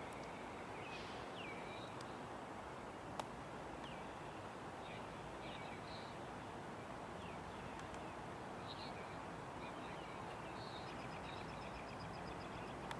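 Songbirds chirping and calling over a steady background noise, with a rapid trill near the end and a single sharp click about three seconds in.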